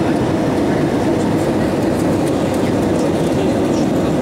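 Steady cabin noise inside an Airbus A320-232, the even rumble of its IAE V2500 engines and airflow, with faint ticks and rattles from the cabin fittings.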